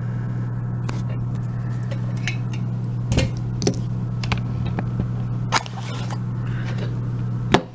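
Scattered sharp clicks and taps of metal lock parts and picking tools being handled, about eight in all, the loudest just before the end, over a steady low electrical hum.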